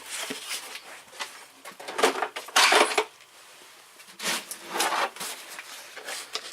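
Metal hand tools clinking and clattering as they are handled, in several short bursts, the loudest about two and a half seconds in.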